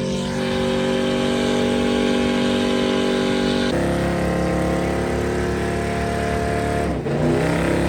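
Truck engine running at a steady speed, dropping to a lower pitch about four seconds in and rising again briefly near the end.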